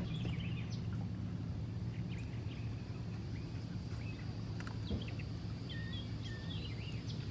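Songbirds chirping and whistling in short, scattered calls over a steady low hum.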